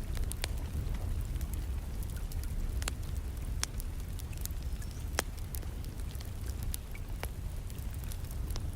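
Wood fire crackling in a fireplace: scattered sharp pops and crackles, a few of them louder, over a steady low rumble, with soft rain in the background.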